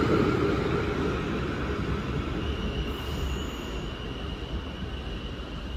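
South Western Railway electric passenger train running away down the line past the platform, its rumble and wheel noise fading steadily as it recedes. A thin, steady high-pitched tone sets in about halfway through.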